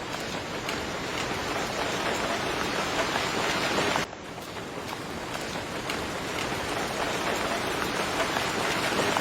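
Steady rain falling, a dense patter of drops hitting a surface. The sound swells gradually and drops abruptly about four seconds in, then builds again, as where a rain recording is cut or looped.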